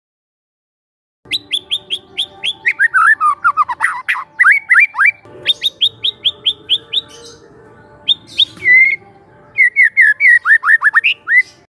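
A young white-rumped shama singing: after about a second of dead silence come rapid runs of sharp whistled notes, most of them falling in pitch, in several bursts with short pauses between.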